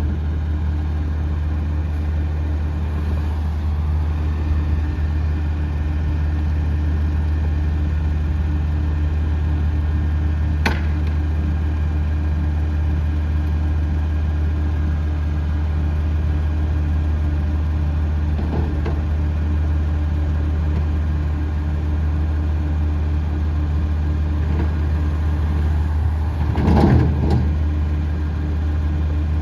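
Peterbilt 320 front-loader garbage truck's diesel engine idling steadily, with a sharp click about eleven seconds in and a brief louder noise near the end.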